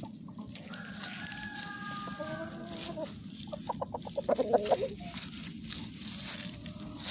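Rooster crowing: one long held call for about two seconds, dropping slightly in pitch at the end, followed by a quick run of loud clucks, the loudest part.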